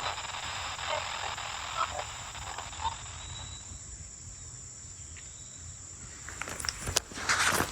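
Steady high-pitched insect chorus from the woods, with a few footsteps on the trail near the end.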